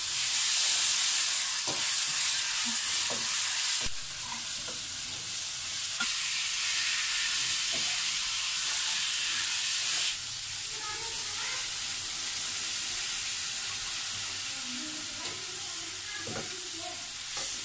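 Food frying in hot oil in a wok over a wood fire: a steady high sizzle, loudest in the first few seconds when tomato goes into the pan, then settling lower about four seconds in and again about halfway. A metal spoon stirs and scrapes the pan with light clicks.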